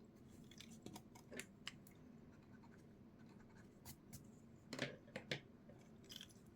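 Faint scratching of a drawing tool on paper in short, separate strokes, the loudest cluster a little under five seconds in.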